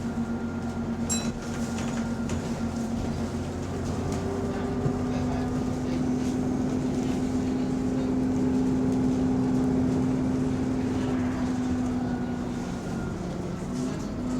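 Bus GAL E210's diesel engine and drivetrain running under way, heard inside the cabin: a steady drone with a held whine that rises slightly and then eases off near the end. The bus has an exhaust leak.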